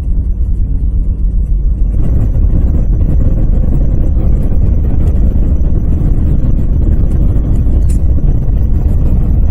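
Steady low rumble of a car driving on a snowy highway, heard from inside the cabin: tyre and engine noise, with a faint steady hum in the first couple of seconds.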